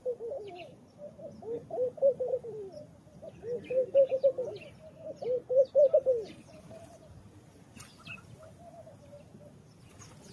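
Doves cooing in repeated low, warbling phrases that stop about six seconds in, with a few fainter coos after, over scattered faint high chirps from sparrows.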